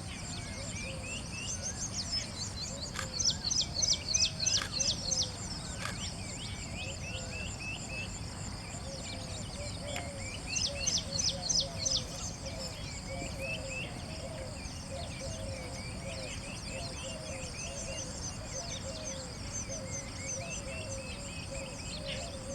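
Birds calling and chirping, with two loud bursts of rapid chirps about three and ten seconds in, over a steady high insect drone.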